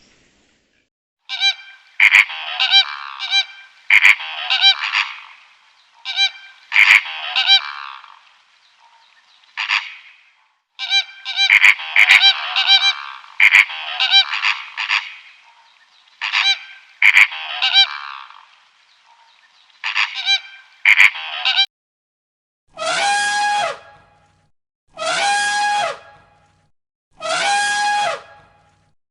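Geese honking in bunches of quick calls for about twenty seconds. Near the end a different call takes over: a drawn-out, steady-pitched call repeated four times, about two seconds apart.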